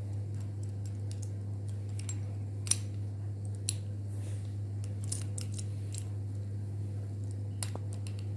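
Small metal clicks and clinks of a bearing puller being handled and fitted around a ceiling fan's ball bearing, a few scattered taps with the sharpest about two and a half seconds in, over a steady low hum.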